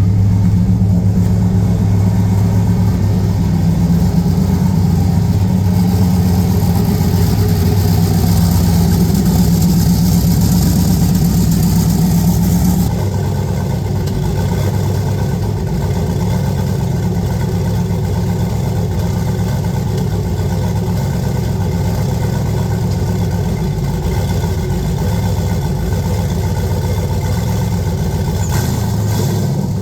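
Turbocharged LS V8 in an OBS GMC pickup running steadily at a raised speed with a high hiss over it, then dropping to a lower, quieter idle about 13 seconds in, the hiss stopping at the same moment.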